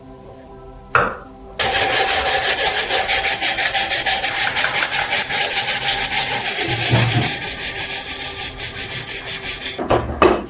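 Fast back-and-forth abrasive scraping on the lamp's rusted metal body, about five or six strokes a second, that stops abruptly near the end. A single knock comes just before it, about a second in.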